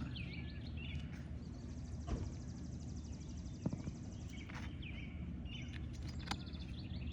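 Birds chirping outdoors over a steady low background rumble, with a long rapid high trill lasting about three seconds in the middle and a few faint taps.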